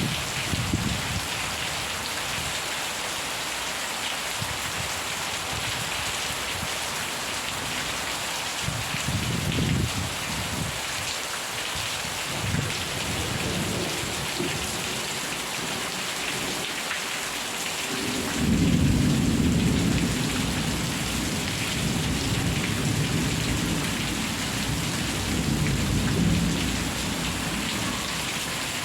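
Steady heavy rain falling, with distant thunder rumbling a few times and a louder, long roll of thunder beginning a little past the middle and fading out near the end.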